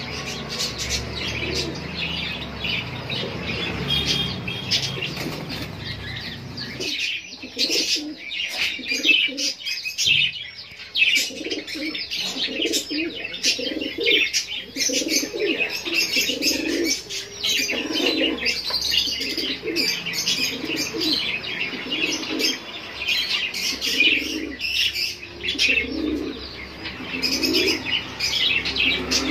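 A shop full of caged birds: pigeons cooing in repeated short low notes over continuous high chirping from many small birds. A rustling, noisy stretch in the first several seconds gives way to clearer cooing.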